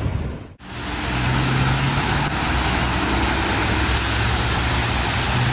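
Road traffic noise, with a steady low engine hum under a wash of road noise, starting after a brief dropout about half a second in.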